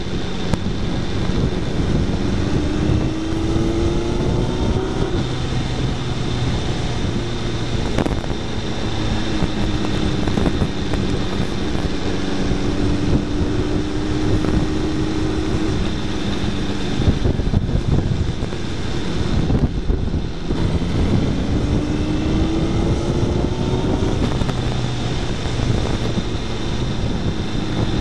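Suzuki Hayabusa's inline-four engine running under way, its pitch rising several times as the bike accelerates, over heavy wind and road noise on a fairing-mounted camera.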